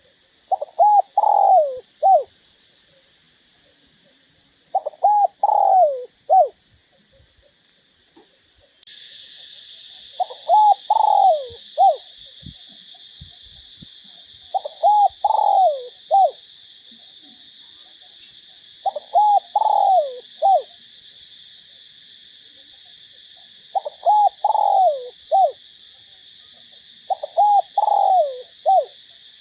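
Spotted dove cooing: seven phrases, one every four to five seconds, each a quick run of low coos ending in a separate final note. A steady high-pitched hiss sits behind it and gets louder about a third of the way in.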